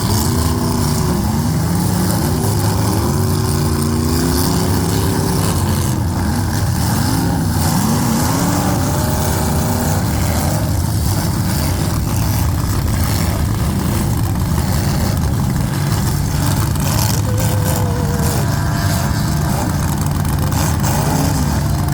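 Several demolition derby cars' V8 engines running and revving together, their pitch rising and falling, with scattered metallic knocks from impacts.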